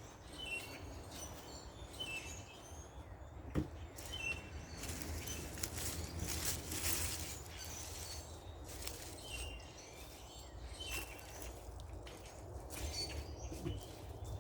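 Small birds chirping: short, high chirps repeated every second or so, over a steady low outdoor background. There is a single knock about three and a half seconds in, and a stretch of scratchy noise a little later.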